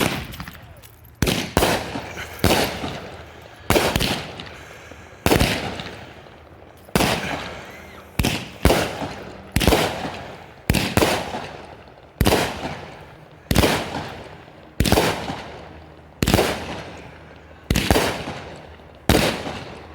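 Raccoon Fireworks Raging Willows 200-gram cake firing shot after shot: a loud bang about every second or so, each trailing off in an echo.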